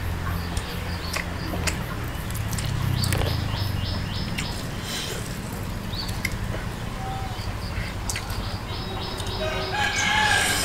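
Close mouth sounds of chewing and smacking on rice eaten by hand, with scattered clicks, over birds chirping and chickens calling in the background; near the end a few drawn-out falling calls stand out.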